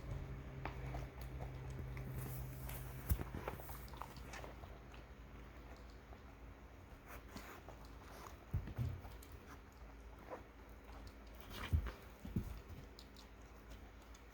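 An animal eating: scattered crunching bites and small clicks, with a few louder knocks about 3, 9 and 12 seconds in.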